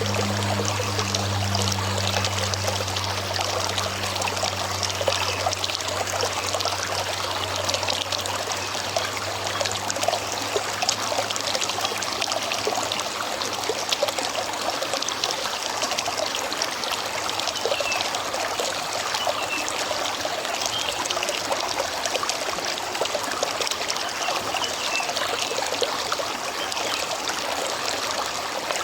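River water running and trickling steadily, with a dense patter of small splashes. A low hum is present at the start and fades away within the first several seconds.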